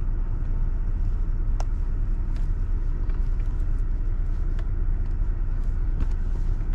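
Steady low rumble of a car engine idling, heard inside the cabin, with a few faint clicks.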